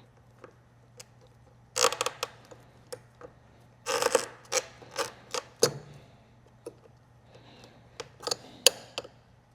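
Hand tools and loose bike parts clicking and clattering as a motorcycle is taken apart, with two brief busy spells of rattling about 2 and 4 seconds in and scattered single clicks between, over a faint steady hum.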